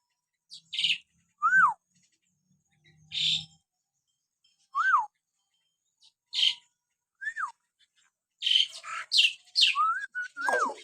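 Hill myna (beo) calling: a short whistle that rises then falls, repeated every one to three seconds, alternating with short harsh, hissy calls. Near the end the whistles and harsh calls come quickly together, closing with a longer falling whistle.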